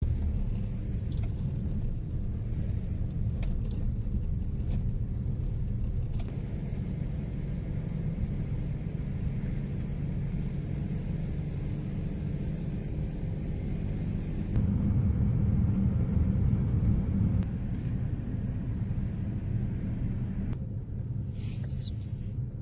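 Steady low rumble of a motor vehicle on the move, with road and engine noise. It grows louder about two-thirds of the way through and eases off near the end.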